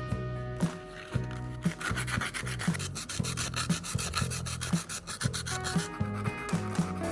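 Rapid, rhythmic rubbing strokes, like a file or abrasive worked over a hard surface, for about four seconds from a second and a half in, over background music with a steady beat.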